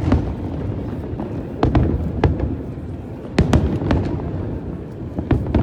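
Aerial fireworks bursting: sharp bangs, several in quick pairs and clusters, each with a short rolling echo, over a steady low rumble of the display and crowd.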